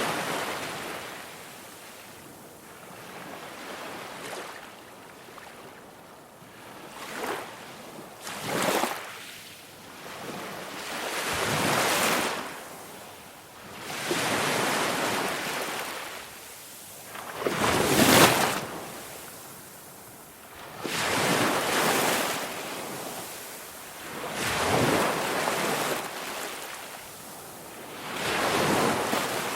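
Ocean waves breaking and washing ashore, the surf swelling and falling back about every three seconds.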